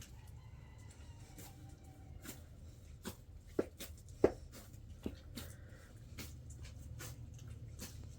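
A rooster crowing faintly in the background, one drawn-out call in the first two seconds. It is followed by a few sharp household knocks and clicks, the loudest about four seconds in.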